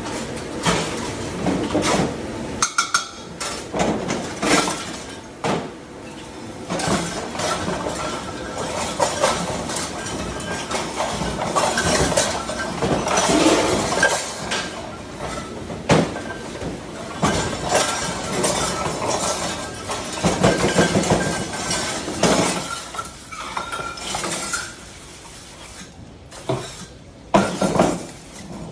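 Dishes, glassware and cutlery clinking and clattering as they are handled in a restaurant dish area, with many irregular sharp knocks over steady background noise.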